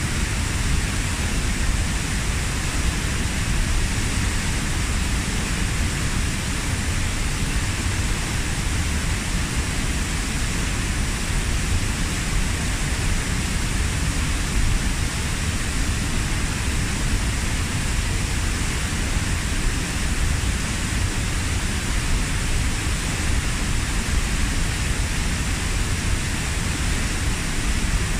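Waterfall about 15 m high, water falling into its pool as a steady, unbroken rushing, strongest in the deep lows and the upper mids.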